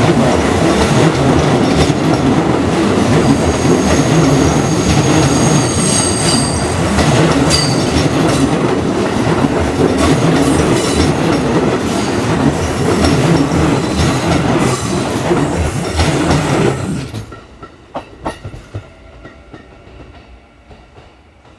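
Hanshin Electric Railway train running through the station, a loud rumble and rattle of wheels on rail with a brief high wheel squeal about six to seven seconds in. The sound drops off suddenly about seventeen seconds in, leaving only faint clicks.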